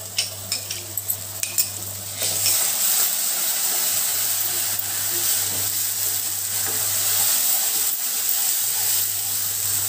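Ginger-garlic paste and browned onions frying in hot oil in a nonstick wok, stirred with a wooden spatula: a few sharp clicks of the spatula against the pan, then from about two seconds in a louder, steady sizzle as the paste is worked into the oil.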